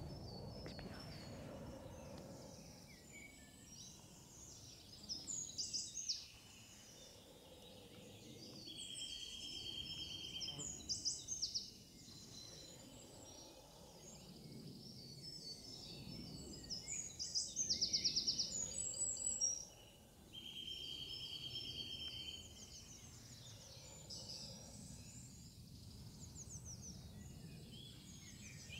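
Several birds singing and chirping, with overlapping short high calls and a few long, even buzzing trills, over faint outdoor background noise.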